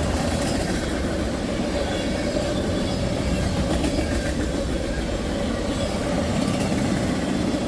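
A freight train of tank cars rolling steadily past, with wheels clattering on the rails and a thin steady tone above the wheel noise.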